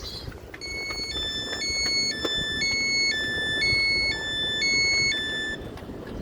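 Electronic two-tone signal alternating between a higher and a lower note about twice a second, for some five seconds, over a steady rumble.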